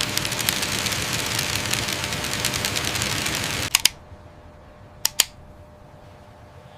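Rapid, dense mechanical clattering that cuts off suddenly about three and a half seconds in, followed by a few sharp clicks in pairs.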